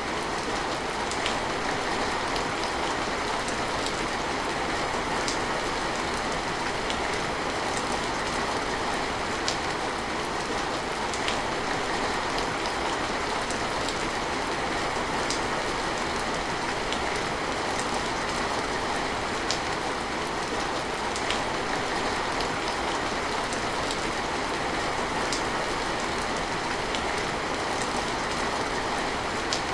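Steady rain falling, with single drips ticking out sharply every second or two.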